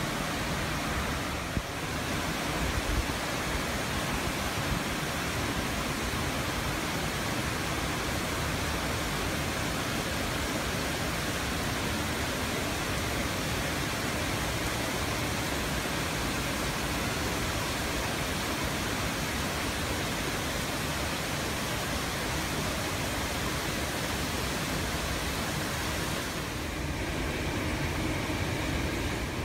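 Steady rain falling on tree leaves, an even hiss.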